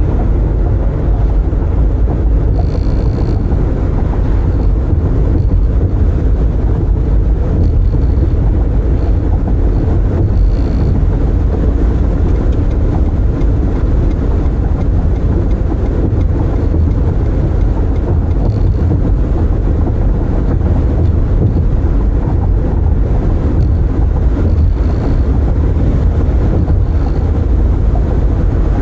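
Road noise inside a car driving with the windows open: a steady low rumble of tyres and wind buffeting the cabin, with a few faint short high chirps.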